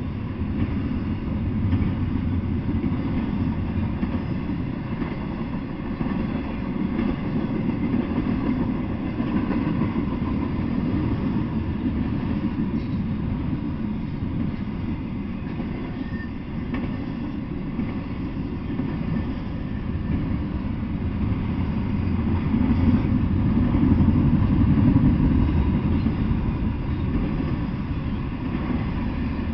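Intermodal freight train of double-stacked shipping containers rolling past: a steady low rumble of steel wheels on rail, growing louder for a few seconds near the end before easing.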